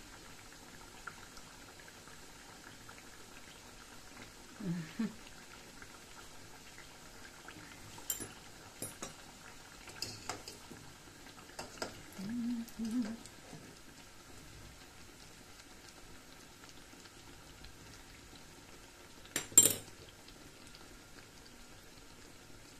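Pestiños frying in a small black pan of hot oil, with a faint steady sizzle. Metal forks clink against the pan several times as the pastries are turned, and there is one sharp metal clack late on.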